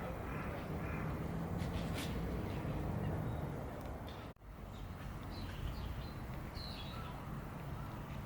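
Steady outdoor background noise with a few short, faint bird chirps in the second half, after a brief dropout about four seconds in.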